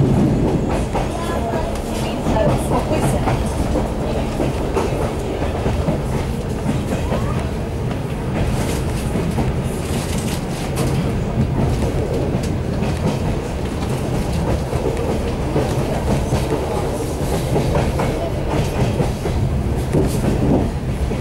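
A suburban passenger train running, heard from inside the carriage: a steady rumble with the wheels clicking over rail joints.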